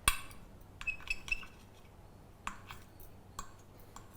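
Kitchen utensil clinking against a dish several times while handling blanched tomatoes. There is a sharp click at the start, then a quick cluster of clinks with a brief ringing tone about a second in, then a few more single clicks.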